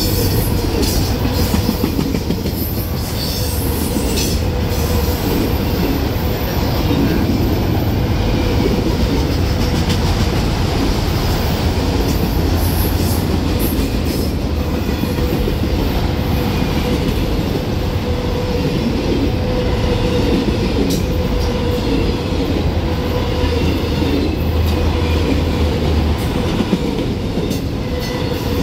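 Autorack freight cars rolling past close by: a steady noise of steel wheels on the rails, with a thin steady ringing tone and occasional sharp clicks.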